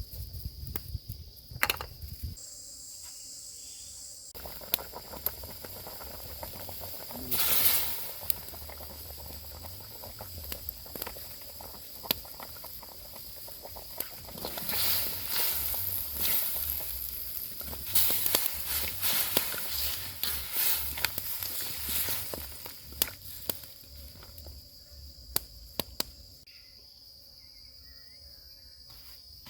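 Steady high insect drone, with frequent sharp clicks and crackles and bursts of hissing, the longest running about halfway through.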